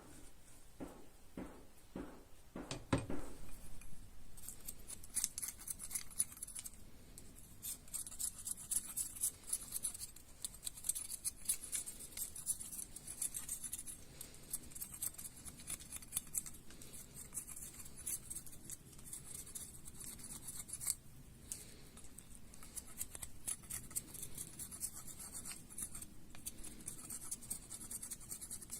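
A few knocks, then a long run of rapid, crisp scratching strokes, like a blade or shears working through material.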